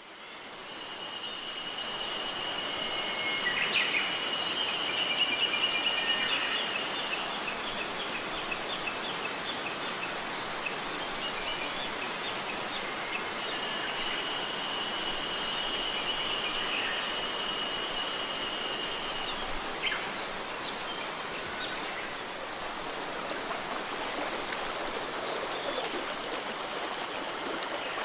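Mountain stream rushing steadily over rocks, with birds singing over it: a long, even trill heard twice for several seconds each time, and short repeated chirps throughout.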